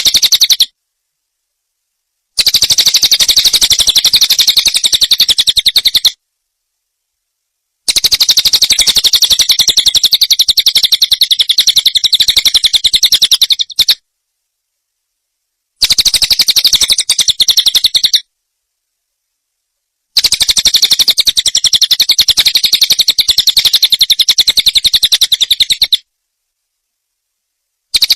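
Recorded songbird masteran: a small bird's very fast, high-pitched trilling chatter, played as bursts of a few seconds that start and cut off abruptly between stretches of dead silence, five times.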